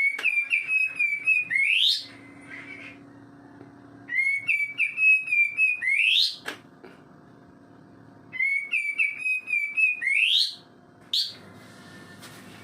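Kapas tembak songbird singing: three whistled phrases of about two seconds each, a few seconds apart, each a run of quick notes ending in a sharp rising sweep, then a single short note near the end.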